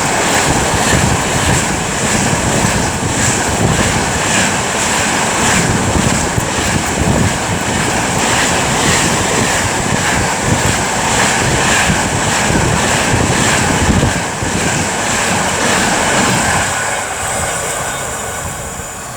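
A DRS Class 66 diesel-hauled freight train passing at speed, its wagon wheels clattering in a steady rhythm over the rails under a continuous rushing rumble. The sound fades away near the end as the train goes by.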